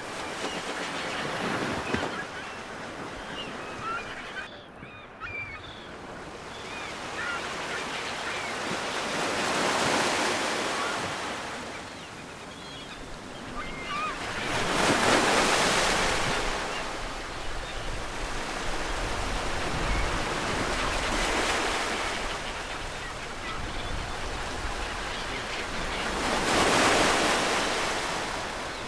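Ocean waves breaking and washing up on a shore, surging four times in slow swells. Faint short bird calls sound in the first several seconds.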